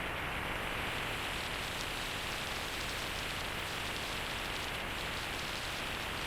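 Steady rushing wind and road noise on a motorcycle-mounted microphone while riding along, even throughout with no engine note standing out.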